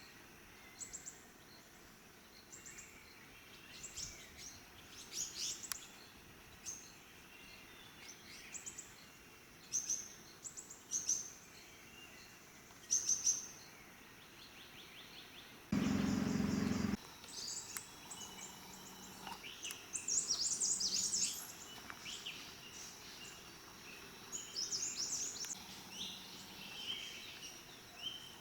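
Small birds chirping in short, high calls that come in scattered bursts over a steady background hiss. About halfway through there is a loud burst of noise lasting about a second.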